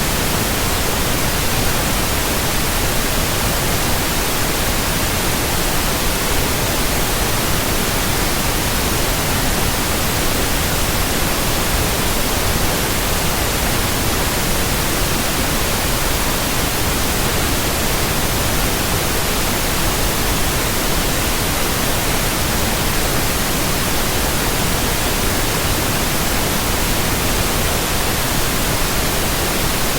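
Pure white noise: a steady, even hiss spread across all pitches, unchanging in level.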